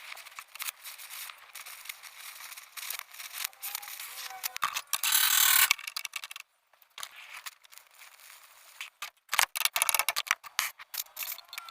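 Irregular scraping, clicking and rattling of metalwork on a rusty car floor panel, with one loud hiss lasting about a second, roughly five seconds in.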